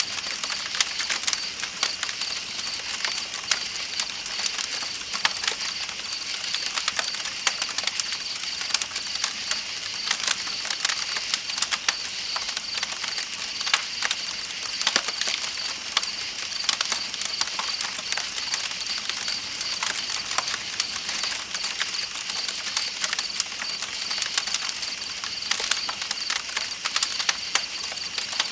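Campfire crackling with frequent sharp, irregular pops over a steady wash of flowing river water. Night insects trill in a continuous high, rapidly pulsing chorus.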